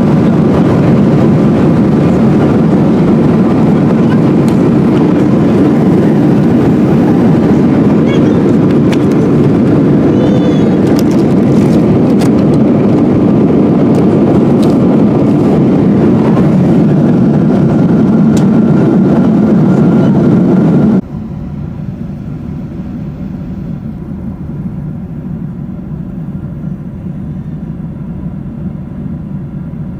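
Steady rushing cabin noise of a Boeing 777-200 airliner, loud at first, then cutting abruptly about two-thirds of the way through to a quieter, similar steady noise.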